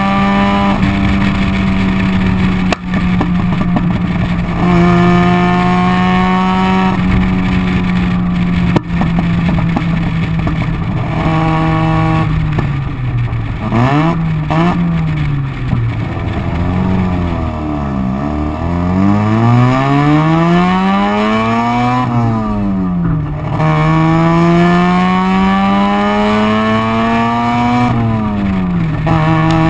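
Bridgeport-ported 13B rotary engine of a 1985 Mazda RX-7 running loud through its exhaust, holding a steady pitch, climbing in rising runs, and through the middle swinging repeatedly up and down as the throttle is worked. Two sharp cracks about 3 s and 9 s in are backfires off throttle.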